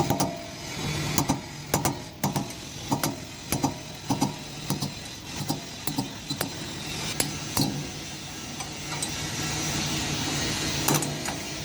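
A run of short, sharp knocks, roughly two a second, over a steady low hum.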